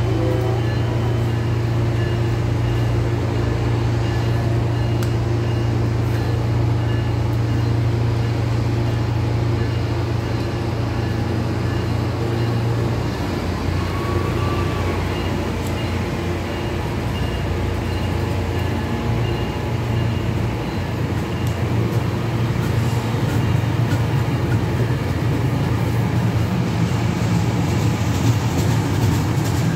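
Tri-Rail commuter train of Hyundai Rotem bilevel coaches rolling slowly past along the platform. A steady low engine hum underlies it and shifts in pitch about halfway through.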